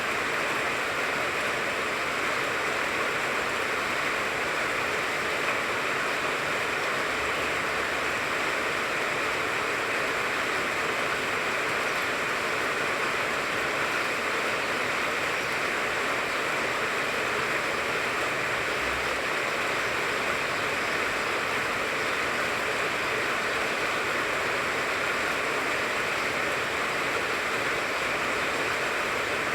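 Steady rain falling on a mandarin tree, an even, unbroken hiss.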